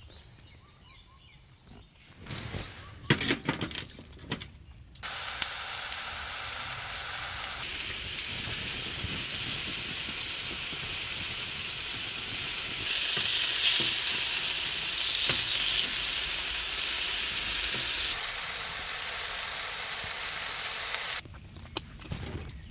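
Food sizzling in a hot pan: a steady frying hiss that starts suddenly about five seconds in and stops suddenly near the end, after a few light clicks and knocks.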